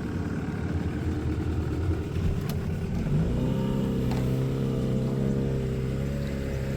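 Small canal cruiser's engine running while the boat is manoeuvred; about three seconds in, the engine speed picks up and settles into a steady, even note.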